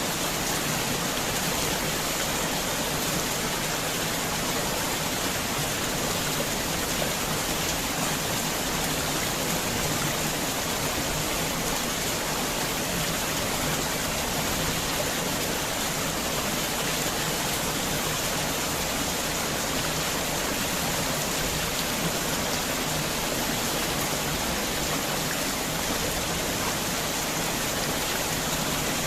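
Heavy rain pouring steadily in a dense, even hiss with no separate drops or gusts standing out.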